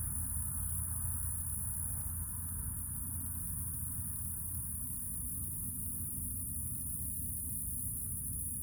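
Steady, even hum of a honey bee colony buzzing at the hive entrance, with no breaks or changes.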